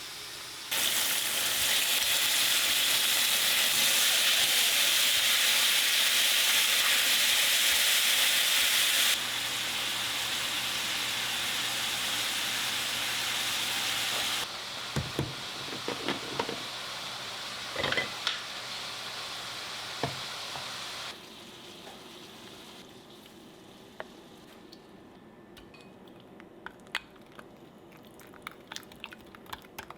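Pork belly frying and sizzling in a pan, a steady hiss that drops abruptly in level several times. Scattered clicks and taps come in the second half.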